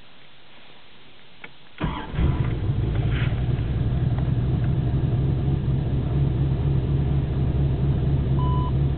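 Chevrolet Corvette engine starting on a freshly replaced battery: a click, then it cranks and catches about two seconds in and settles into steady running. A short electronic beep sounds near the end.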